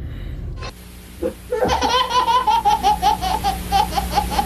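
A person laughing hard in a long run of rapid, high-pitched "ha-ha" pulses, about four or five a second, starting about a second and a half in after a brief lull.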